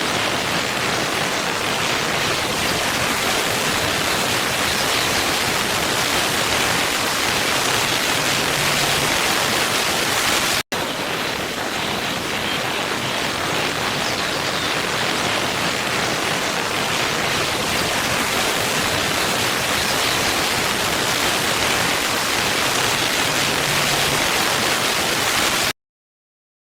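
Waterfall ambience: a steady rush of falling water. It drops out for an instant about ten seconds in, then resumes, and cuts off abruptly near the end.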